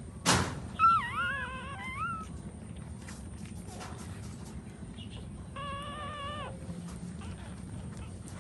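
A sudden thump, then puppies whining in high thin cries: a wavering one about a second in and a steadier one near six seconds.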